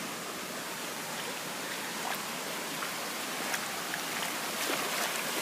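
Floodwater running fast across a road: a steady rushing, with faint scattered splashes.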